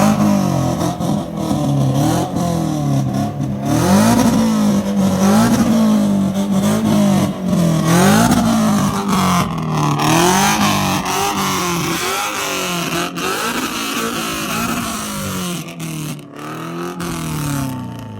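A car engine revved in repeated throttle blips, its pitch rising and falling about once a second. The revving gets quieter over the last few seconds.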